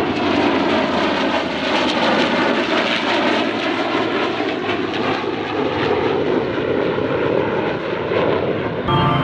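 Steady engine noise of an F-35 jet and a P-51 Mustang flying together in a heritage-flight formation; it cuts off abruptly near the end.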